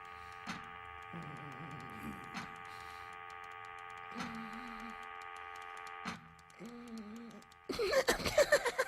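Sound-designed ambience of a vast surreal machine: a steady electrical hum of several tones, a sharp click every second or two, and short warbling mechanical tones. Near the end a sudden loud burst of dense clattering breaks in.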